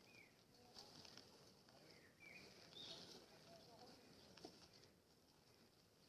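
Near silence: a few faint, short bird chirps over a faint steady high hiss.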